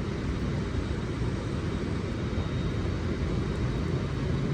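Steady low rumble of city traffic with an even hiss over it.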